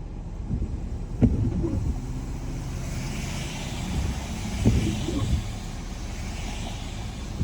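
Car driving on a wet road, heard from inside the cabin: a steady low road rumble with tyre hiss that swells in the second half. Two short thumps come about one and five seconds in.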